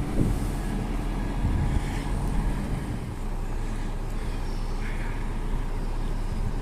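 Diesel engine of a truck-mounted crane running steadily with a low drone, its note changing about halfway through.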